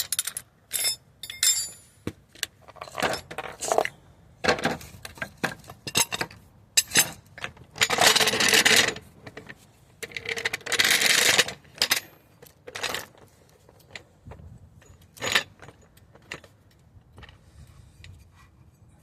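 Metal clinks and knocks of hand tools and suspension parts being handled and levered into line, with two longer noisy stretches of about a second each past the middle.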